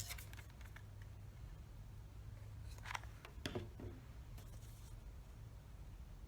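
Faint handling of craft materials, popsicle sticks and cardboard tubes pressed and glued together, with a couple of short scrapes about three seconds in, over a low steady hum.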